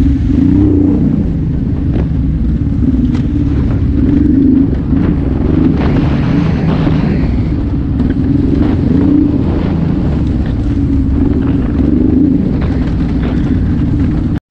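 Honda Transalp 600's V-twin engine running while riding, its pitch wavering up and down with the throttle, with occasional sharp clicks over the drone.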